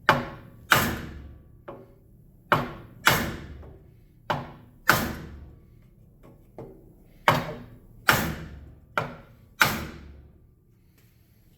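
Hammer blows on a heated motorcycle front wheel rim, about a dozen strikes at an uneven pace, some lighter, each ringing briefly; they stop about ten seconds in. The rim is being hammered to work out a flat spot from a bend.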